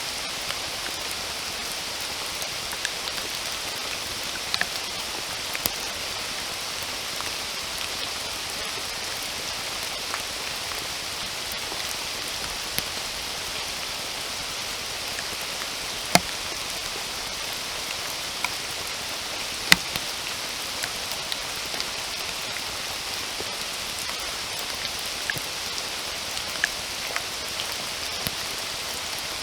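Steady rain falling in a continuous hiss, with scattered single drops striking close by as sharp ticks, the two loudest about halfway and two-thirds of the way through.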